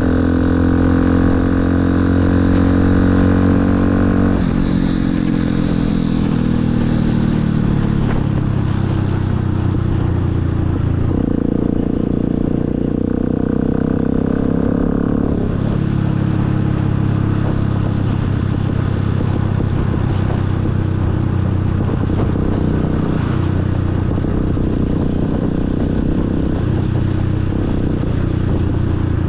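Motorcycle engine running on the move: the pitch climbs for the first few seconds, falls away as the throttle eases off, holds steady for a few seconds around the middle, then settles lower for the rest.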